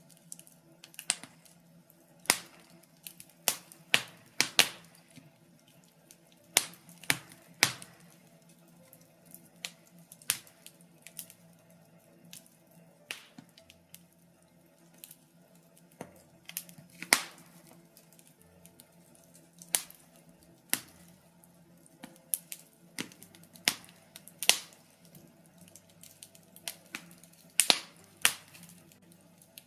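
Birch logs burning in a fireplace, crackling with sharp, irregular pops about once or twice a second.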